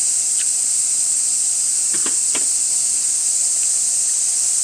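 Chorus of cicadas droning steadily at a high pitch, with a couple of faint light clicks about two seconds in.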